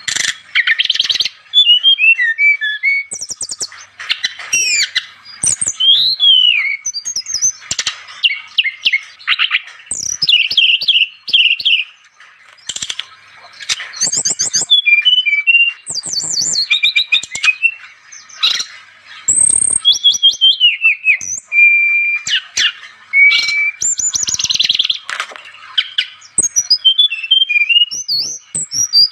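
A brown-chested jungle flycatcher (SRDC, sikatan rimba dada coklat) singing continuously in a fast, varied stream of chattering notes, quick trills and short whistles, including a few held whistles and a high rising whistle about two-thirds of the way in. It is a lively full song of the kind used to lure wild birds.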